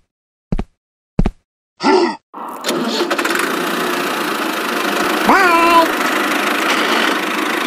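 A couple of sharp clicks, then an engine starts about two and a half seconds in and runs steadily, with a brief rising tone about five seconds in.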